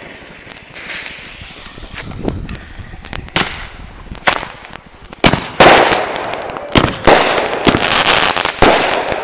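Fireworks going off: a hiss about a second in, then a string of sharp bangs about once a second that grow louder, with crackling between the later bangs.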